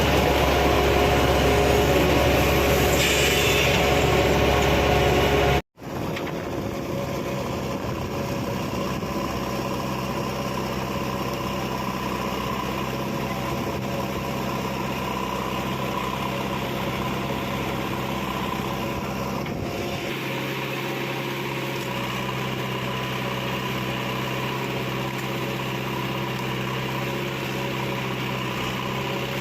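Heavy diesel engine running steadily. About six seconds in the sound cuts out for an instant and comes back quieter.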